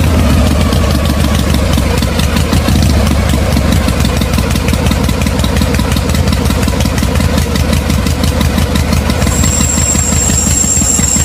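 A small motor on a DIY mini tractor flour-mill model running steadily, with a low hum and a fast regular pulse. About nine seconds in, a high thin whine joins it.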